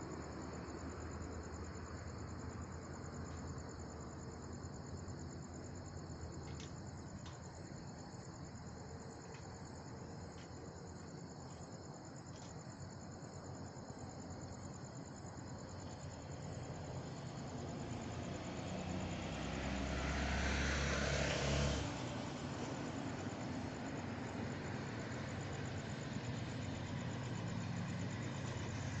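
Diesel locomotives of an approaching freight train, a low steady engine rumble, with insects chirping faintly. About twenty seconds in, a louder rushing noise swells for a couple of seconds and cuts off.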